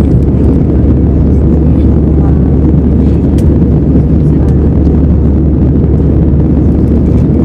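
Airbus A320 heard from inside the cabin at takeoff: a loud, steady, deep rumble of engines and airflow.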